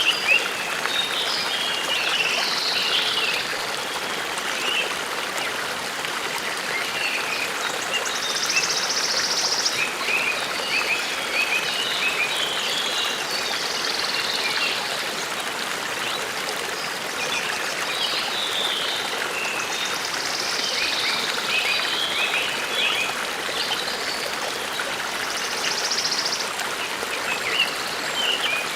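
Forest stream babbling steadily, with songbirds singing short chirping and trilling phrases over it every few seconds.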